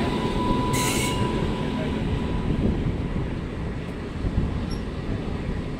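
Steady rumble of a passenger train running at speed, heard from inside it, with a WAG-9 electric freight locomotive running on the parallel track alongside. A short hissing rush about a second in and a faint thin whine that fades out early.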